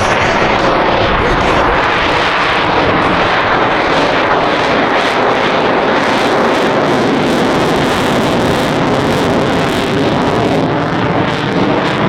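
Airplane flying at an airshow: loud, steady engine noise with no clear pitch.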